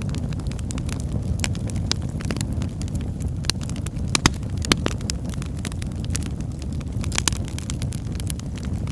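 Wood fire in a fireplace crackling: a steady low rumble of flames with frequent sharp pops and snaps, a few louder pops about halfway through and again near the end.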